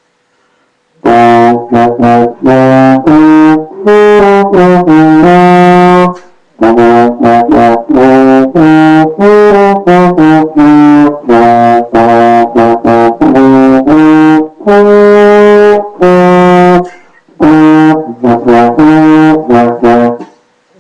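Baritone horn playing a slow melody of separate tongued notes, starting about a second in, in phrases with short breaks for breath; very loud.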